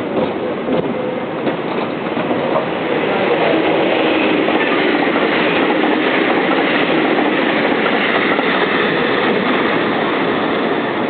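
A Meitetsu electric train running past a level crossing, its wheels rumbling on the rails. The sound swells about three seconds in and stays loud.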